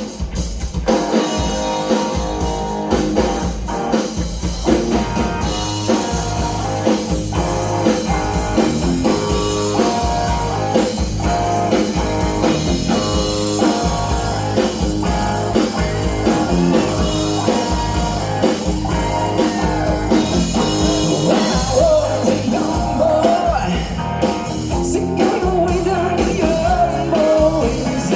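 Rock band playing live: guitar and drum kit with a singer's voice, a steady beat throughout.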